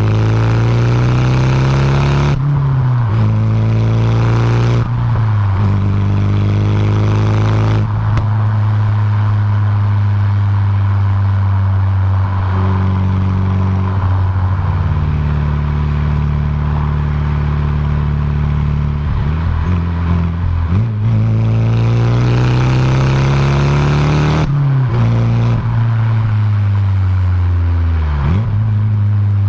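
Nissan Silvia S14a's turbocharged SR20DET four-cylinder running under way. The engine note climbs and drops abruptly at gear changes: once a couple of seconds in, again around five and eight seconds, then twice more near the end. Between those changes it holds long stretches of steady cruising.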